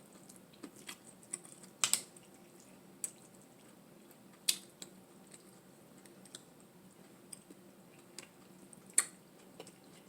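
Scattered sharp clicks and small cracks of a sauce-covered Dungeness crab's shell being handled and pulled apart, with three louder snaps about two, four and a half and nine seconds in.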